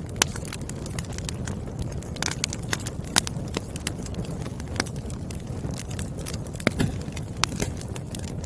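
Wood fire burning with a steady low rush of flame and irregular crackles and pops from the burning logs, a few of them sharp and loud.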